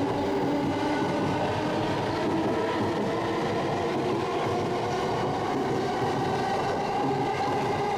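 JR East E217 series Yokosuka Line electric train moving along the platform: a steady hum of several tones over the rumble of its wheels.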